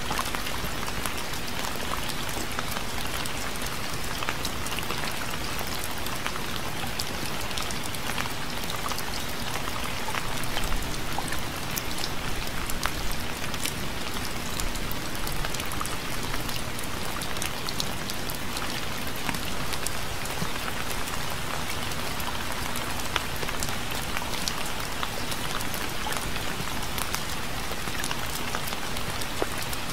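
Steady rain falling, with many small drops pattering on a surface. The rain is continuous, with a slight swell about eleven seconds in.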